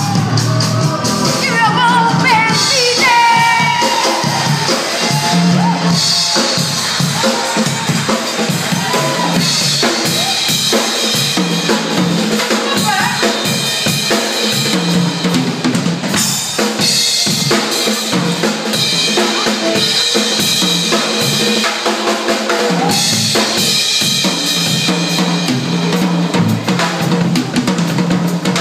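A live band playing an R&B instrumental, the drum kit's snare and bass drum driving a steady beat under a bass line, with pitched lead lines bending above.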